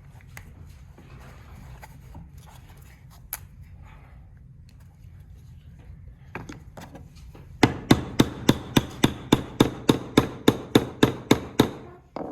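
Hammer tapping on wood: a quick, even run of about fifteen taps, some four a second, starting about seven and a half seconds in, seating the bird piece onto a glued wooden dowel. Before it, faint handling of the wooden parts.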